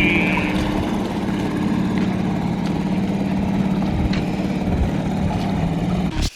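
Small outboard motor on an inflatable dinghy running at a steady speed, holding one even pitch.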